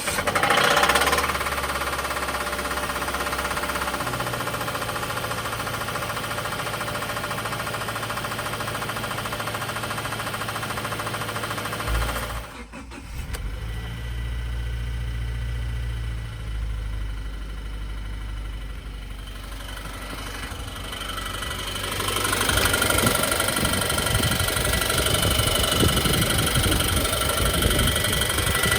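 2014 Subaru Forester XT's 2.0-litre turbo FA20 flat-four just started, flaring in the first second and settling to a steady idle. From about two-thirds of the way through it runs louder, with a knocking the owner puts down to a spun bearing.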